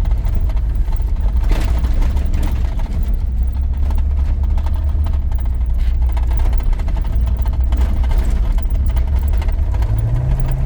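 1983 GMC C2500 pickup's 350 small-block V8 and drivetrain droning steadily while driving, a low engine and road hum. Its pitch rises briefly near the end.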